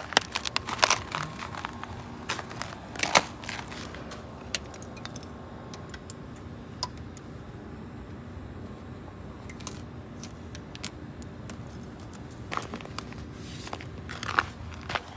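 Crunching footsteps in snow and jangling keys: a burst of sharp crunches and clicks for the first few seconds, a quieter stretch with a steady low hum, then more crunching and clicking near the end.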